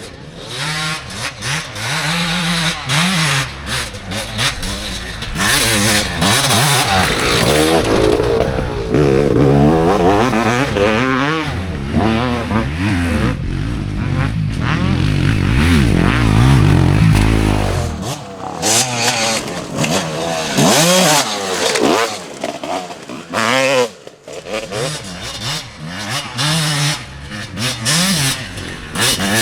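Off-road enduro motorcycles racing past, engines revving hard and shifting through the gears, pitch climbing and falling again and again, with more than one bike heard at once at times. There are sudden brief drops where the throttle is shut off, notably about two-thirds of the way through.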